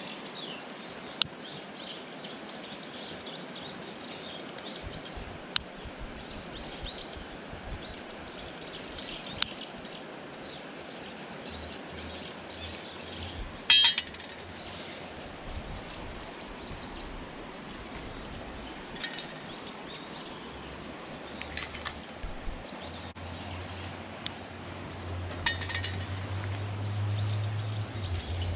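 Small birds chirping over a steady outdoor hiss, with a few sharp pops and short bursts of crackling from a wood campfire now and then. A low hum comes in near the end.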